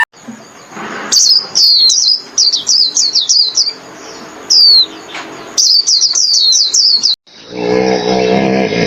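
A bird chirping in quick runs of sharp, high, falling chirps, with a single chirp in between. Near the end it cuts to a lower, pitched animal call.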